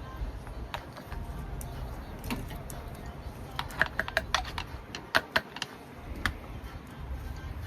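Scattered light clicks and taps, small hard objects being handled, with a quick flurry of them around the middle, over a low steady rumble.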